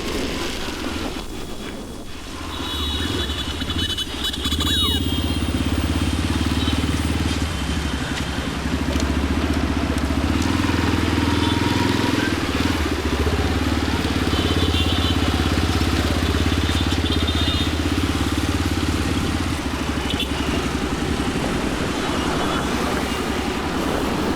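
Motorcycle engine running steadily while riding, a low drone that gets louder about five seconds in, over road and traffic noise. A few short high-pitched tones sound briefly a few seconds in and again mid-way.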